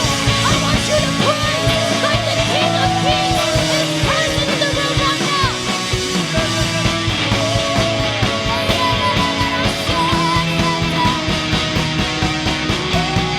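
A worship band playing a full rock arrangement with drums, bass and electric guitar, a lead line holding and bending long notes over a steady beat.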